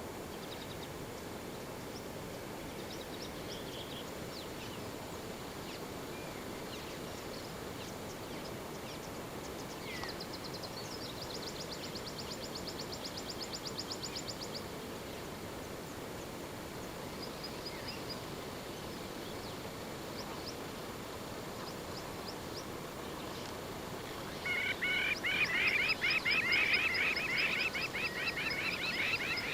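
Outdoor bush ambience with several wild birds calling: scattered short calls, a fast high trill lasting a few seconds near the middle, then a loud bout of rapid, repeated harsh calls that starts near the end.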